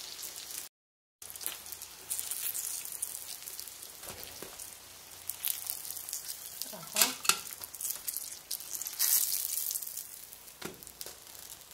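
Breaded eggplant fillets sizzling in hot oil in a frying pan: a steady hiss that flares up as the fillets are moved and lifted out, then dies down near the end. The sound cuts out completely for a moment about a second in.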